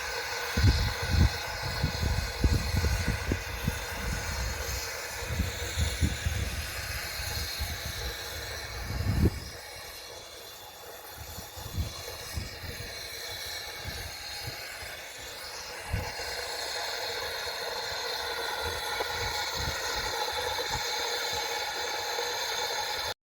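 Train on the 15-inch-gauge Romney, Hythe & Dymchurch miniature railway running, a steady rumble with hiss. Dense irregular low thumps come through the first nine seconds or so, then the sound settles into a quieter, steadier run.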